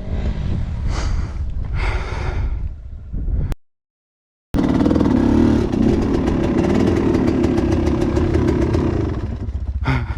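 Enduro motorcycle engine running and revving under throttle. About a third of the way in the sound cuts out completely for about a second, then the engine runs hard and steady again.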